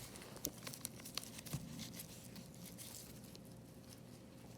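A few faint sharp clicks in the first two seconds, then light handling noise from small hand tools working on the iPad's frame, over a faint steady hum.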